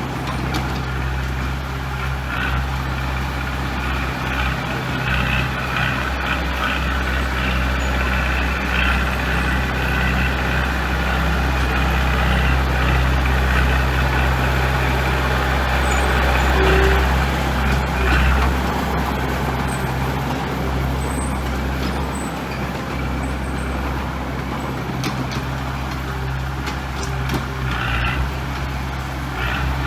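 Diesel engine of heavy construction machinery running steadily, working louder for several seconds in the middle.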